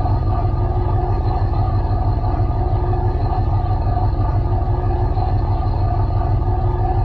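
LG washing machine running, heard from inside its drum: a steady low rumble with a hum whose tone swells and fades every couple of seconds.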